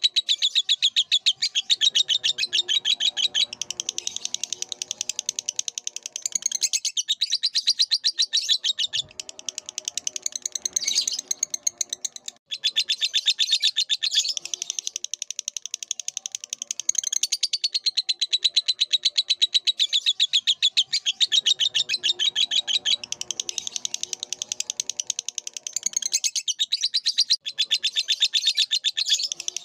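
Lovebird singing a long, unbroken run of very rapid, high chattering (the ngekek song), with one short break about twelve seconds in.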